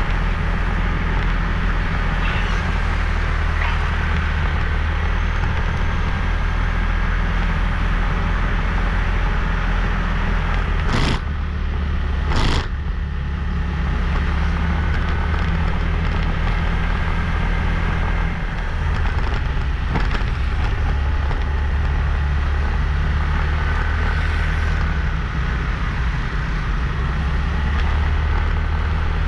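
Motorbike riding noise: a steady low rumble of engine and wind with road hiss. Near the middle come two sharp knocks about a second and a half apart.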